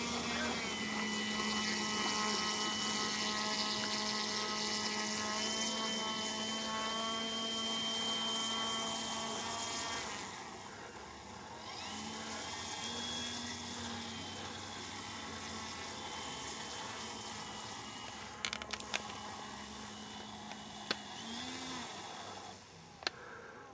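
Radio-controlled model airplane in flight, its engine and propeller whining steadily at high revs. The sound drops about ten seconds in, then the pitch glides up again around twelve seconds and once more near the end, with a few sharp clicks late on.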